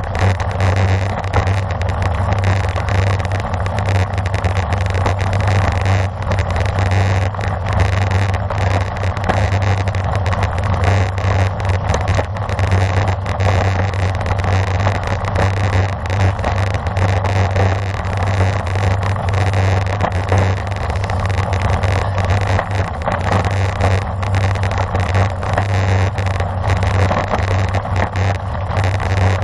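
Steady wind rush buffeting the microphone of a camera carried on a racing bicycle at speed.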